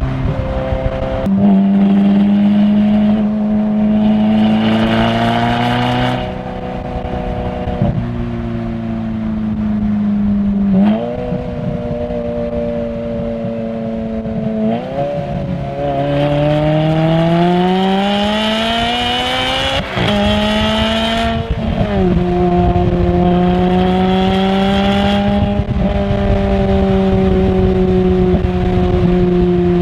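Ferrari flat-plane V8 engine running hard through the gears. The pitch jumps up in quick steps at about 1, 11 and 15 seconds, like blipped downshifts. A long rising pull under acceleration drops sharply with an upshift about 20 seconds in, then the engine settles into a steadier, slowly falling drone.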